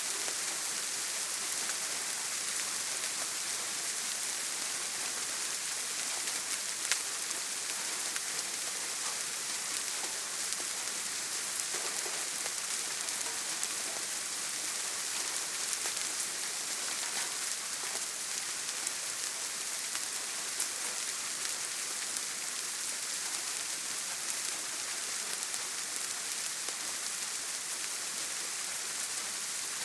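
Steady heavy rain drumming on a tin roof: a dense, even hiss with scattered sharper drop ticks.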